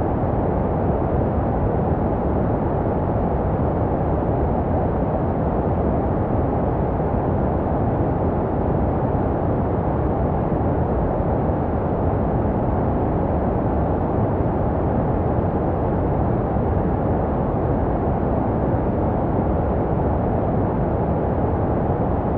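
Steady, deep white noise made for soothing a baby to sleep: an even, unchanging muffled rush with its weight low down and little treble.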